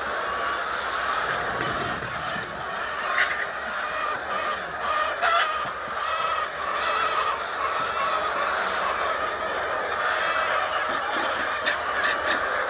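A flock of chickens clucking continuously, many birds calling over one another, with a few short sharp clicks.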